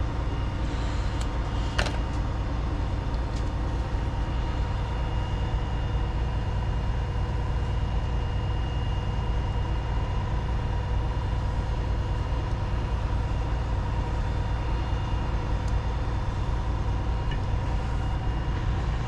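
An engine running steadily at idle: a constant low drone with a few steady tones above it.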